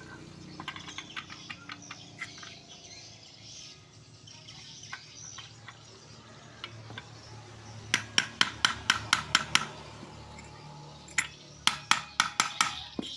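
Metal hand tools clinking and clicking on a scooter's CVT clutch assembly as it is taken apart, with two quick runs of sharp metallic clicks, about five a second, one about eight seconds in and another near the end.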